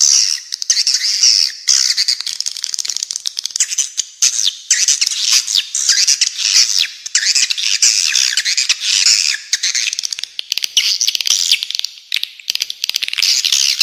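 Dense, unbroken chattering and twittering of spiderhunter (pijantung) calls mixed with swiftlet (walet) calls, a bird-mastering track with quick overlapping chirps and no pauses.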